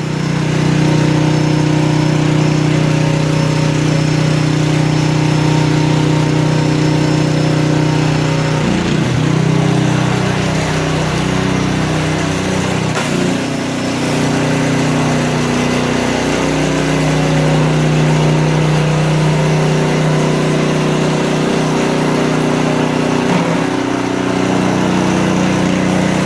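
Small gas engine of a consumer pressure washer running steadily, with the hiss of the water spray over it. The engine's pitch dips and shifts briefly a few times.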